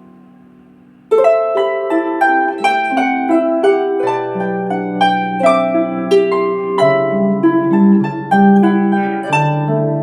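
Celtic harp playing a melody of plucked, ringing notes over held bass notes, starting about a second in after a faint lingering tone.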